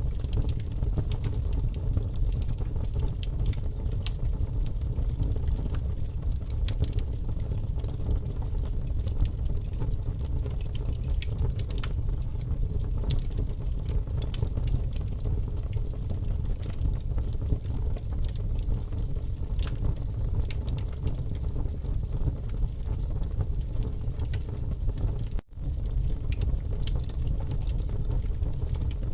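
Campfire burning, with constant irregular crackles and pops over a steady low rumble. The sound cuts out for an instant near the end.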